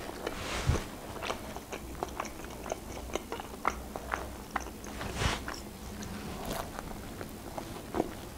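A person chewing a mouthful of pizza close to the microphone: many small, sharp mouth clicks and smacks, with two louder ones about a second in and around five seconds.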